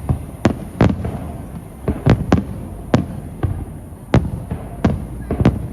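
Aerial fireworks shells bursting in an irregular run of about ten sharp booms, each trailing off with a short rumbling echo.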